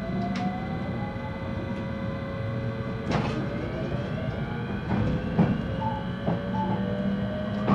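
JR West 223 series electric train heard from inside its motor car: the inverter motor whine rises steadily in pitch as the train gathers speed, over a low running rumble. Sharp rail-joint knocks come about three seconds in and several more after about five seconds.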